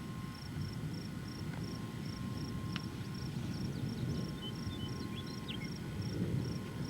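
Wind rumbling on the microphone outdoors, with a steady insect chirping that pulses about two and a half times a second and a few short bird chirps about halfway through.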